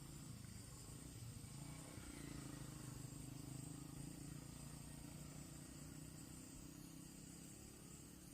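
Quiet outdoor ambience: a faint, steady low hum with a light hiss.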